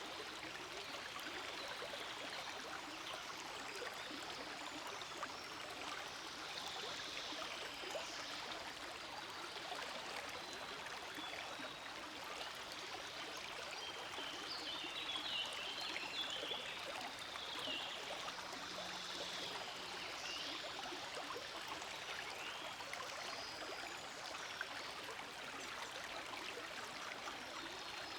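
Forest stream flowing steadily, a constant babble of running water.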